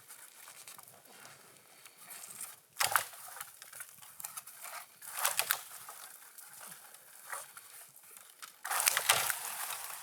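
Crunching and crinkling noises in a few short, loud bursts, the longest near the end, over a faint background.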